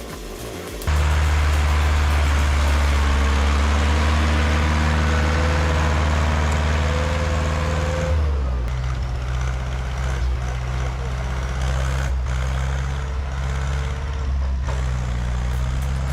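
Heavy machine's engine running steadily under load, cutting in abruptly about a second in; its note drops and becomes more uneven about eight seconds in.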